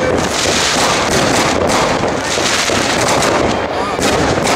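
Many fireworks and firecrackers going off at once, a steady din of overlapping bangs and crackles.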